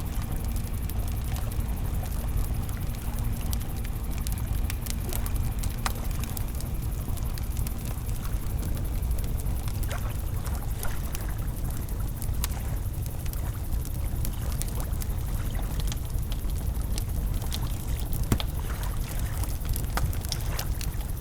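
Wood campfire crackling, with scattered sharp pops at irregular moments over the steady rush of flowing river water.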